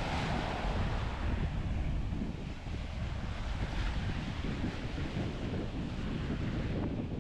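Small surf washing onto a sandy beach, with wind buffeting the microphone in a continuous low rumble. The hiss of a wave is strongest near the start.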